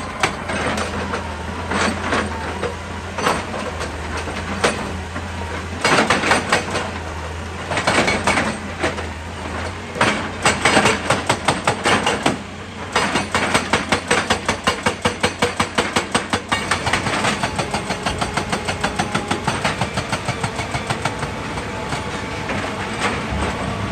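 Excavator's diesel engine running with a steady low hum under loud metal clanks and rattles. About halfway through, the clanks settle into a fast, even rhythm of several a second.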